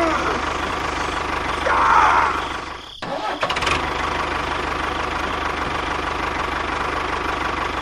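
Small motor of a miniature model tractor running steadily with a fast even chatter; it breaks off abruptly about three seconds in and resumes at once.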